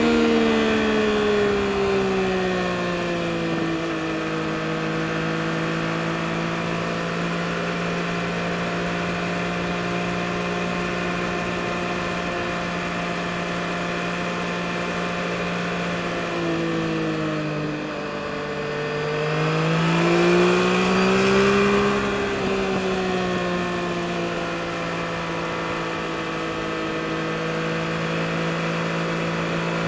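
2022 Yamaha MT-09 SP's 890 cc inline three-cylinder engine under way: the revs fall at the start and the engine then runs at a steady cruise. About two-thirds of the way through the revs dip briefly, then climb again in a short, louder pull before settling back to a steady cruise.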